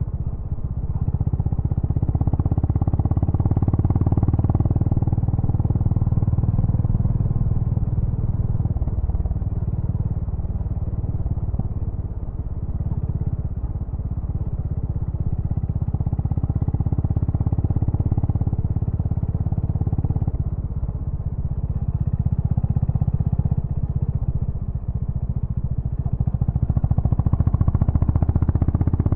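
Honda GB350's air-cooled single-cylinder engine running through its exhaust, a deep continuous thump whose level eases off and builds again a few times, louder near the end.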